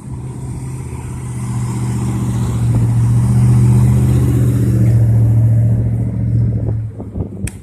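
A motor vehicle's engine hum at a steady low pitch, getting louder to a peak in the middle and then fading, as a vehicle passes close by. A sharp click near the end.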